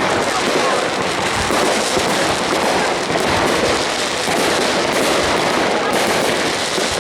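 Aerial fireworks display going off in a dense, continuous barrage of bangs and crackles, with a crowd's voices mixed in.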